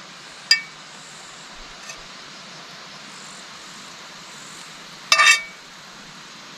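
Metal cooking utensils clinking against a camp frying pan: one light clink about half a second in and a louder, ringing clatter about five seconds in, over a steady hiss.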